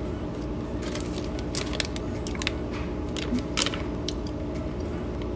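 A person chewing a soft, chewy M&M fudge brownie: irregular small mouth clicks and smacks, over a steady low background hum.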